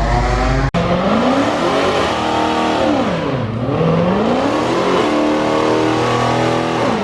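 Car engine revving loudly as the car pulls away, its pitch climbing, falling and climbing again with the throttle, with a brief dropout about a second in.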